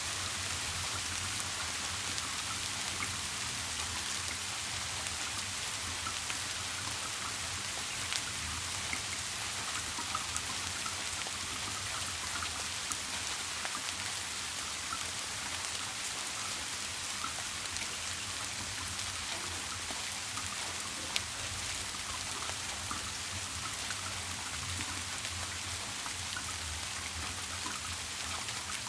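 Steady rain falling, an even hiss with scattered ticks of individual drops and a few slightly louder drips.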